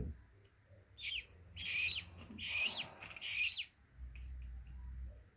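Parrot chicks calling: four short, harsh squawks in quick succession, each about half a second long, then a faint low hum near the end.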